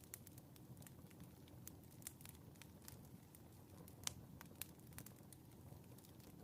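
Faint wood fire crackling in a fireplace: scattered sharp pops over a low steady rumble, the loudest pop about four seconds in.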